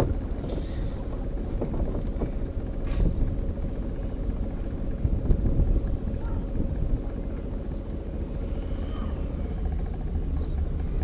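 Small car's engine running steadily, heard from inside the cabin, as the car pulls away slowly under a learner's clutch control: a steady low hum.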